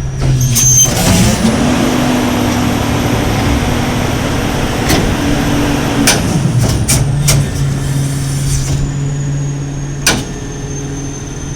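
Garbage truck's diesel engine idling, then running faster and louder under load for about eight seconds as the Leach rear packer's hydraulics are worked, with several sharp metallic clunks, before settling back to idle.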